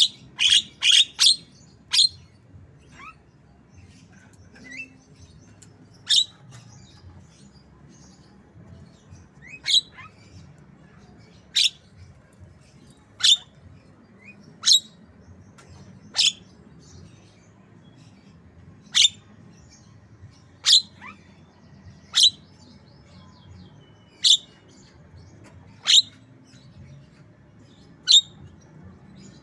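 Javan myna giving loud, short, sharp calls in the voice of a white-rumped shama. A quick run of about four notes comes at the start, then single notes follow about every one and a half to two seconds.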